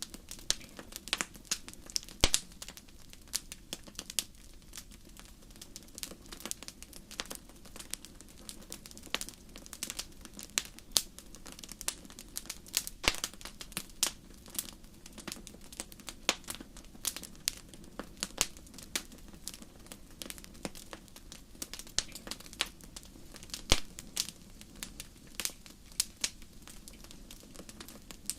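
Wood fire crackling in a fireplace: irregular sharp pops and snaps, several a second with louder ones scattered through, over a low steady hiss.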